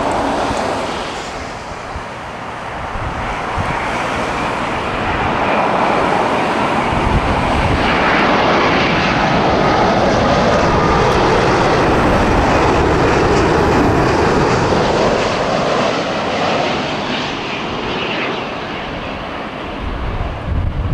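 Boeing wide-body jet airliner flying past on its landing approach: the engine noise builds, holds loud, then drops in pitch and fades as it passes. Wind buffets the microphone near the end.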